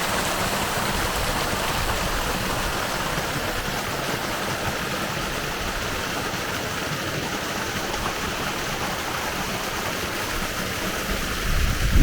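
River water running: a steady rush of flowing water. A low rumble creeps in near the end.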